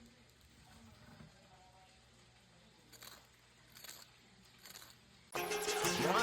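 Three short, faint crunches of a crispy breaded chicken cutlet, about a second apart, then loud upbeat music starts abruptly near the end.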